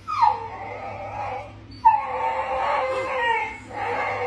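A dog howling: three long howls in a row, the first two starting high and dropping in pitch.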